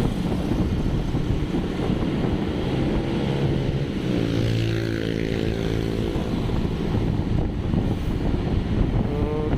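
Road and engine noise from travelling through traffic, with wind buffeting the microphone. About four seconds in, a pitched engine note stands out over it for a couple of seconds.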